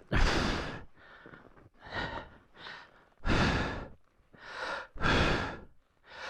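A man breathing hard, with heavy, noisy breaths about once a second, some louder exhales between lighter breaths. He is winded from straining to lift a fallen, fully loaded motorcycle.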